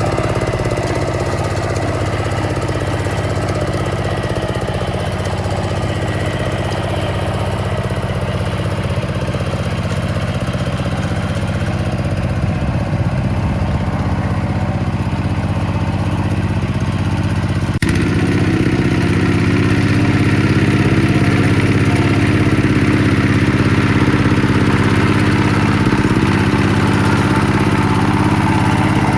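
Small engine of a restored farm tiller running steadily. Its note shifts abruptly about two-thirds of the way through, then runs a little louder.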